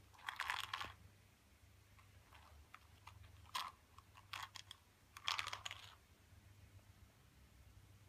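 A cat crunching dry treats, in several short bursts of crisp crackling with pauses between.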